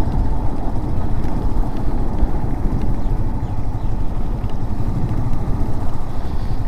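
Motorcycle riding along a road: the engine running steadily under a constant rumbling rush of wind and road noise.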